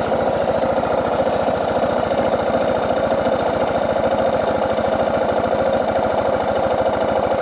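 Suzuki DR650's single-cylinder four-stroke engine idling with an even, quick pulse. The rider says it is still backfiring and dying out, which he takes to mean it is not getting enough fuel.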